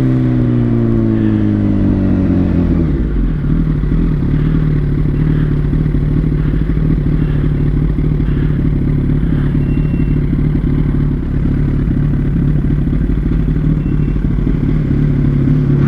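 Yamaha R1's inline-four engine dropping in revs over the first few seconds, then running at a steady, lower pitch.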